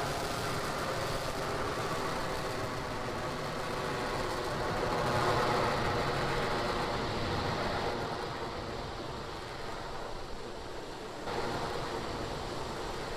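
The nine Merlin engines of a climbing Falcon 9 rocket, a steady rumble of engine noise heard through the launch broadcast audio. It eases somewhat about eight seconds in and comes back up a few seconds later.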